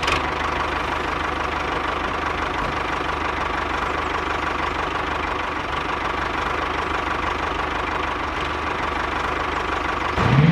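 Tractor-style engine running steadily at idle with a fast, even knocking beat.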